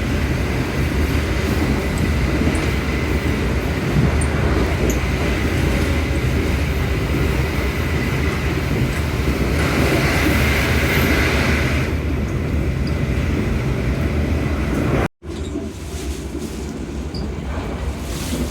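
Passenger train running on the rails with a steady rumble, a brighter hiss rising for about two seconds near the middle. A little after fifteen seconds the sound cuts out abruptly and comes back quieter.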